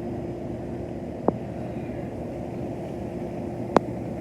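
A steady low mechanical drone with a constant tone in it, cut by two sharp clicks, about a second in and near the end.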